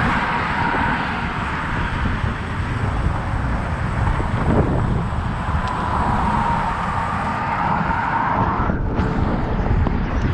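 Wind rushing over the microphone of a moving bicycle, with road traffic going by alongside, a steady low rumble and hiss throughout.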